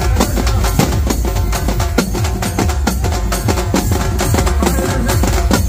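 Loud DJ dance music with heavy bass and fast, sharp drum strokes.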